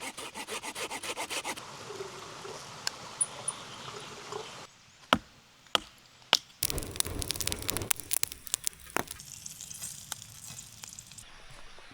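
Wood being hand-sawn in quick, even strokes, followed by a few sharp snaps and a stretch of crackling rustle.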